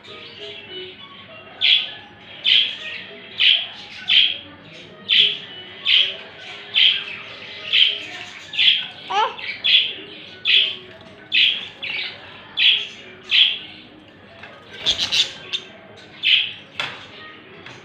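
Parrot calling over and over: a sharp, high call about once a second, some fourteen times, then a quick cluster of calls near the end.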